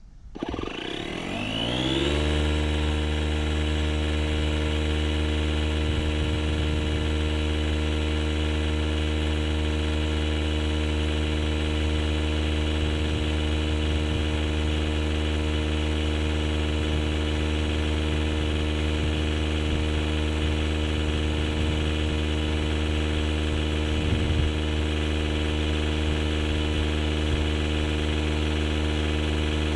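DeWalt DCC020I 20V cordless tire inflator's compressor starting up, its pitch rising over the first couple of seconds, then running at a steady hum. It is pumping air into a large tube-type truck tire.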